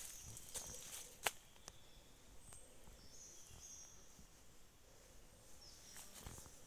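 Quiet forest ambience with a few faint, short, high-pitched bird calls in the middle and near the end, and a couple of sharp clicks in the first second or so.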